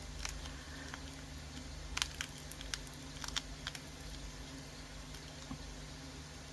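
Faint scattered clicks and light taps as fingers press soft modelling 'dirt' into a tiny pot, over a steady low hum.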